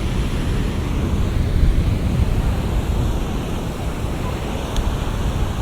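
Ocean surf: waves breaking and washing in, a steady deep, rushing wash.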